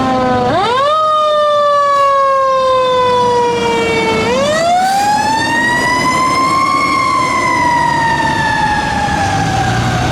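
Fire engine siren wailing: it climbs quickly, falls slowly, climbs again to a peak about seven seconds in, then slowly falls away.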